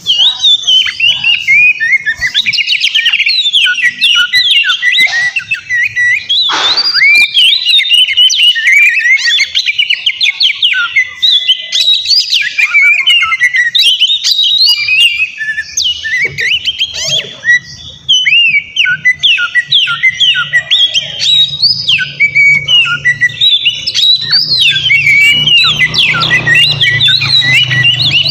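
Oriental magpie-robin (kacer) singing continuously: a loud, fast stream of varied whistles, slurred notes and chattering phrases. A low hum sits underneath in the second half.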